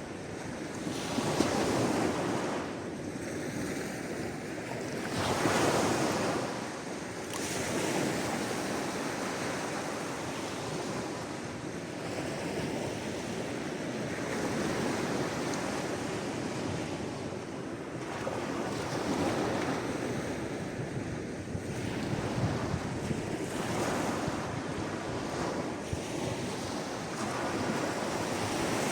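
Sea waves washing on the shore, a continuous surf wash that swells twice near the start and then runs steadier, with some wind.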